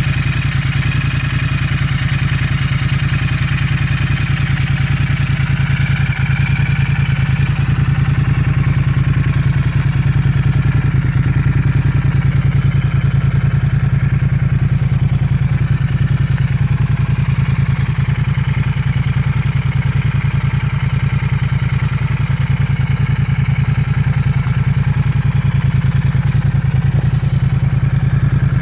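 Royal Enfield Interceptor 650's parallel-twin engine idling steadily through a TEC Stinger 2-into-1 aftermarket exhaust, its note unchanging.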